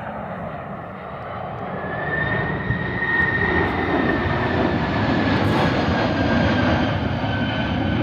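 Boeing 767 jet engines at go-around thrust. The roar builds over the first two or three seconds and then holds loud, with a high whine above the rumble.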